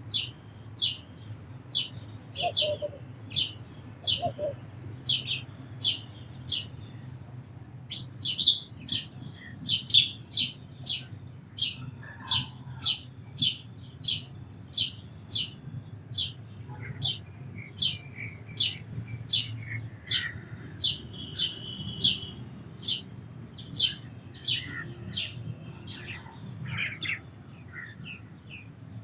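House sparrow chirping over and over, short sharp cheeps about two a second, with a steady low hum underneath.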